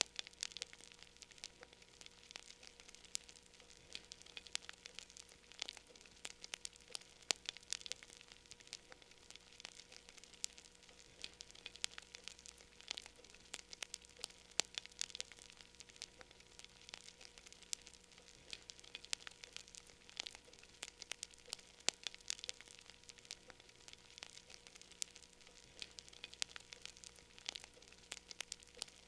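Wood fire in a fireplace crackling: a dense, irregular stream of small snaps and pops, faint overall, over a low steady hum.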